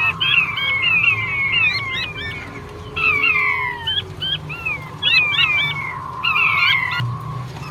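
Male king quail calling: quick runs of high, falling whistles, often overlapping, coming in bunches with short breaks between them.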